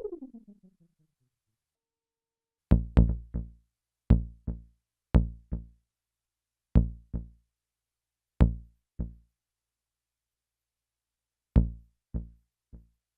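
Behringer Neutron synth bass notes played singly through an MXR Carbon Copy analog delay pedal. Each short, punchy note is followed by two or three quickly fading repeats. Right at the start, a falling pitch sweep dies away in a string of echoes.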